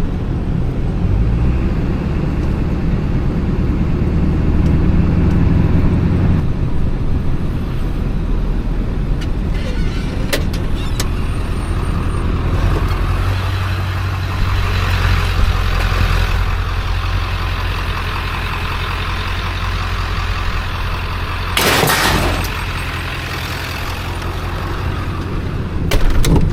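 Motor vehicle engine running steadily with road noise, as while driving; a brief loud burst of noise comes about three-quarters of the way through.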